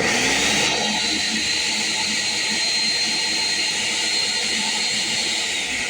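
Ninja NJ601AMZ blender's 1000-watt motor starting suddenly and spinning up to a steady high whine, then its pitch starting to fall near the end as it winds down. It runs only while the pause button is held down, because the blender won't stay on through its speed settings: a fault.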